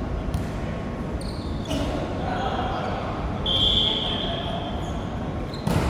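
Ball bouncing on a hard court floor in a large hall, with a brief high squeak about three and a half seconds in and a sharp knock near the end, over background voices.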